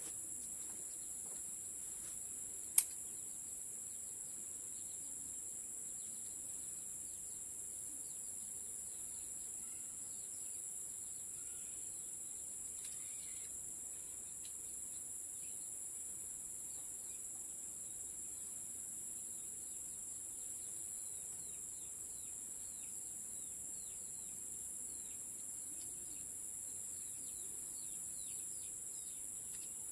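Steady, high-pitched insect drone with faint bird chirps scattered through it, and one sharp click about three seconds in.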